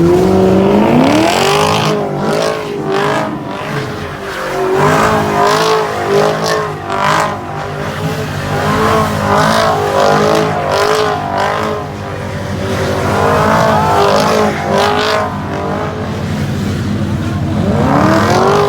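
Car engine revved hard at a street takeover: the pitch climbs steeply, then is held high and swings up and down as the throttle is worked, climbing again near the end. Tyres squeal under it.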